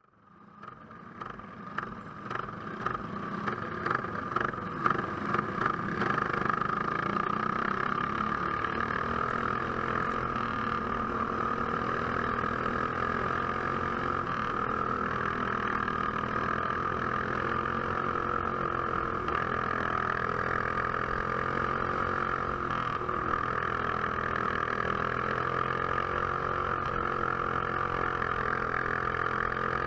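Box Stock class racing kart engine heard onboard, revving in pulses as it picks up speed over the first several seconds, then running steadily at race speed.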